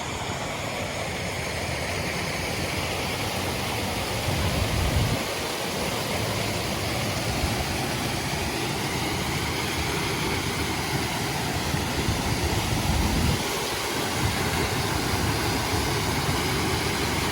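Swollen, flash-flooded creek rushing steadily, a dense even wash of water noise, with two brief low rumbles, one about four seconds in and another about thirteen seconds in.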